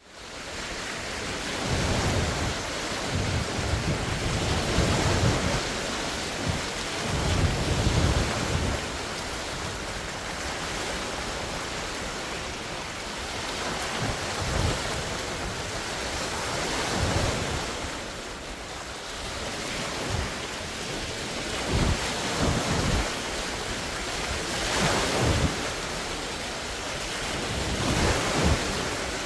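Large wind-driven lake waves breaking and washing ashore in a steady rush, with surges every few seconds. Strong wind buffets the microphone and adds low rumbles.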